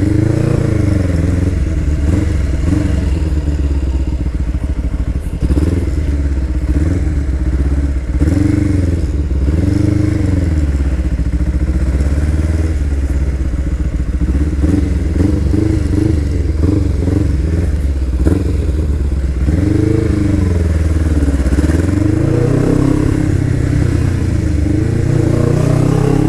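Kawasaki EX500R's parallel-twin engine running through a full 2-1 Akrapovič exhaust while riding in traffic. The engine pitch rises and falls several times as the bike accelerates and eases off.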